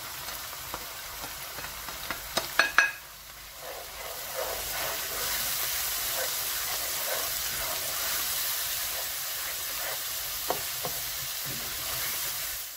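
Onion and tomato masala frying in oil in a pan with a steady sizzle while a spatula stirs through it. A few sharp clacks in the first three seconds as the spices are tipped in from a plate with a spoon.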